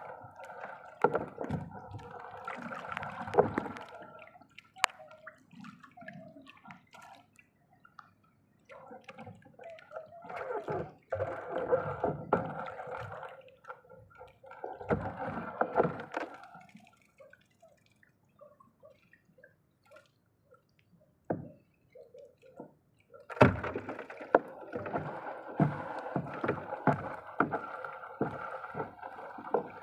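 Water splashing and gurgling in irregular bursts with quiet gaps, and a few sharp knocks, the loudest about two-thirds of the way through.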